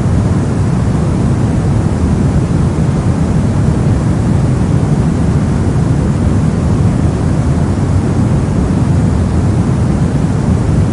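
Brown noise: a steady, even rumbling hiss, heaviest in the low end and thinning out towards the highs, with no changes or events.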